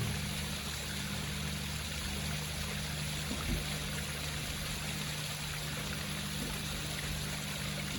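Water trickling and splashing steadily down a home rock waterfall, with a steady low hum underneath.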